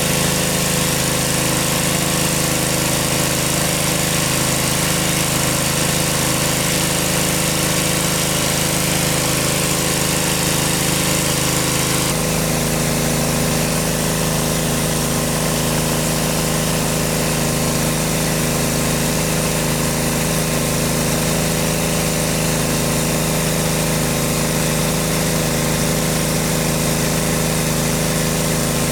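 A small engine running steadily, with an abrupt shift in its tone about twelve seconds in.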